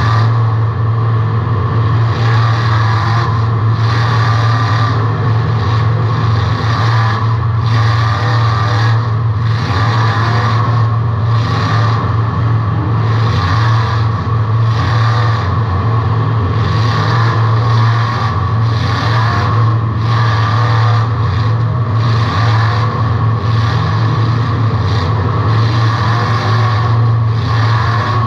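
A car engine running loud and steady, heard from inside the car, with a constant low drone and noise that swells and eases about once a second.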